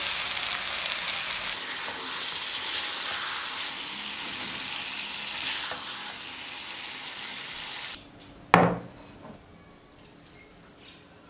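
Masala-coated chicken pieces sizzling and frying in a hot kadai while being stirred with a wooden spatula. The sizzling cuts off suddenly about eight seconds in, followed by a single loud knock.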